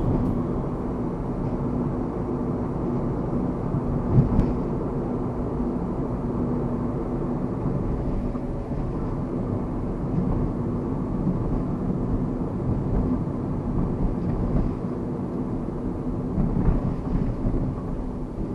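2009 Mazda Verisa compact car on the move: steady engine hum and road noise, with a sharp bump about four seconds in and a few smaller knocks near the end.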